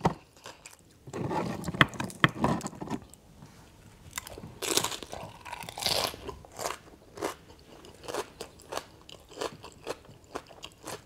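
Close-miked crunching and chewing of a crisp fried corn tostada with shrimp ceviche. Sharp crunches come thickest in the first half, then ease into softer, regular chewing.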